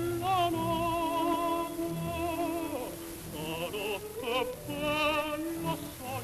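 Operatic-style singing of long held notes with wide vibrato, in phrases without clear words, over low sustained accompaniment. It is the opening of an Italian love song.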